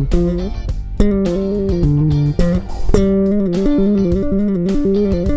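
Solo bass guitar playing a jazz-fusion passage in chords. Several notes sound together and change quickly, each chord struck with a sharp attack.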